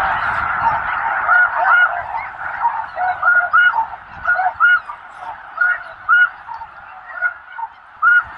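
Snow geese calling: many short, high honks from a flock, overlapping thickly at first and thinning to separate calls after about two seconds.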